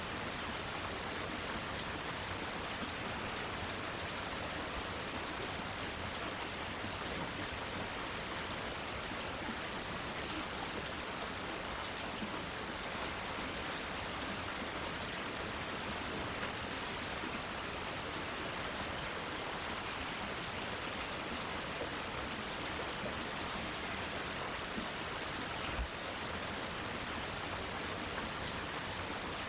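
Steady rainfall, an even hiss of rain with scattered drips. A single low thump about 26 seconds in.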